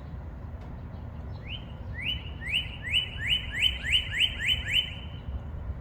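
Northern cardinal singing: a run of about ten loud, rising whistled notes, repeated quickly and speeding up slightly, starting about one and a half seconds in and ending about five seconds in. The male is singing to find a mate.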